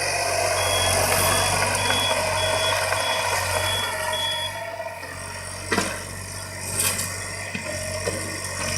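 Excavator running with its diesel engine humming steadily while its travel alarm beeps about twice a second, stopping about halfway through. Two sharp metal clanks follow near the end.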